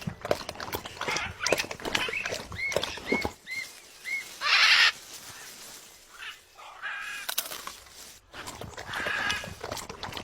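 Parrot calling: a quick run of short chirps, then a loud harsh squawk about half a second long, with more chirps later and scattered clicks and taps throughout.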